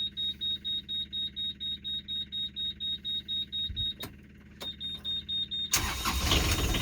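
A sailboat's inboard engine is cranked by its starter, pulsing about four to five times a second, while the engine panel's alarm buzzer sounds a steady high tone. The cranking stops about four seconds in, and near the end the engine catches and runs.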